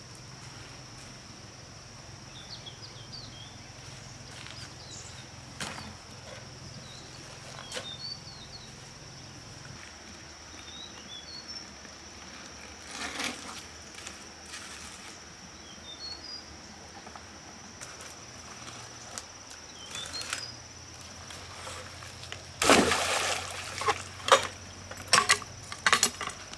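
Outdoor ambience with a steady high insect drone and scattered short bird chirps. Near the end comes a loud noisy burst, then several sharp clicks.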